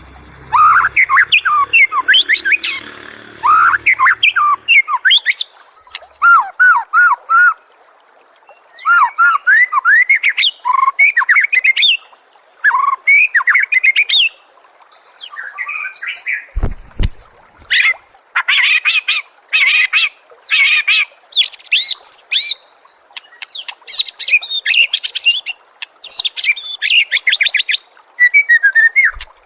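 White-rumped shama (murai batu) singing a varied song: phrases of loud whistled notes that sweep up and down, turning to fast, high, rattling trills in the second half. A short low thump sounds a little past halfway.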